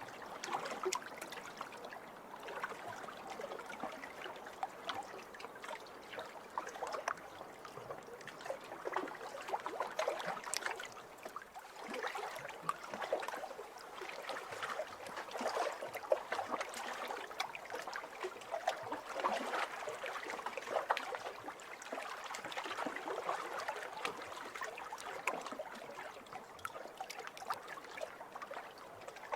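Small waves lapping over a pebble shore: water washing and trickling through the stones with many small pebble clicks, swelling and easing every few seconds.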